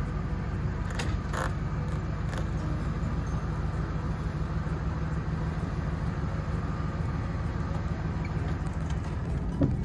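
Tow vehicle's engine running steadily while driving, a low even rumble, with a few light clicks or rattles in the first few seconds.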